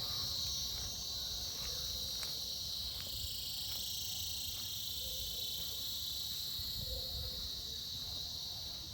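Cicadas buzzing in a steady chorus: a continuous high-pitched drone that holds without a break.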